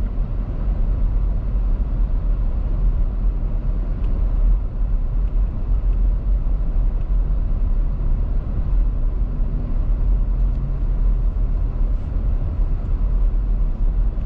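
A car driving along: a steady low rumble of engine and tyres on the road.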